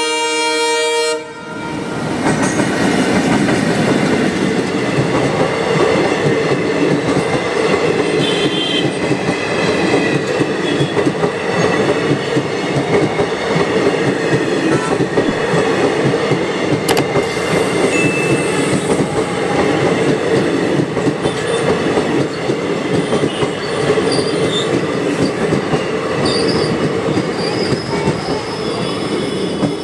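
An Indian Railways express train sounds one locomotive horn blast lasting a bit over a second. It then rushes past at speed, its coaches rumbling and the wheels clattering steadily over the rails for the rest of the time.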